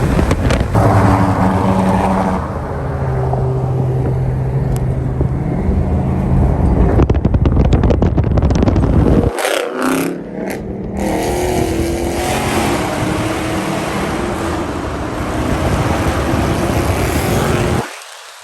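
Loud car engines running and revving, with one engine note held steady for several seconds. The sound breaks off abruptly about nine seconds in and again near the end.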